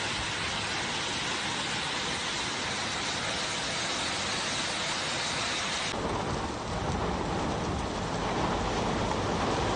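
Heavy rain pouring down in a steady hiss. About six seconds in, the sound cuts abruptly to a deeper, heavier rush of water.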